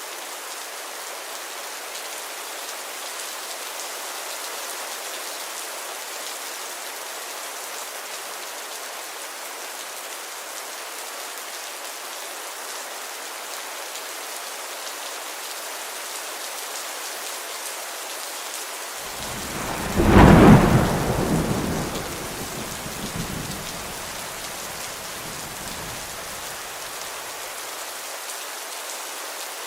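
Steady rain falling, with one loud clap of thunder about two-thirds of the way in that rumbles on for several seconds before fading back into the rain.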